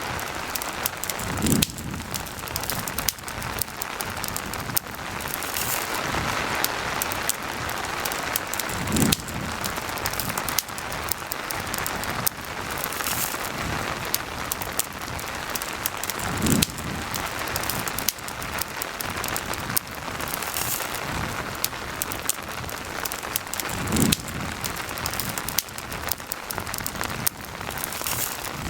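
Steady rain falling, with sharp crackles of a campfire scattered through it. A dull low thump comes back about every seven and a half seconds, four times.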